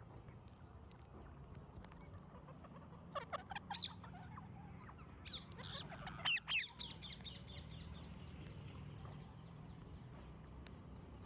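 Parrots squawking in two clusters of short, harsh calls, one about three seconds in and a louder one from about five to nearly seven seconds in, over a low steady hum.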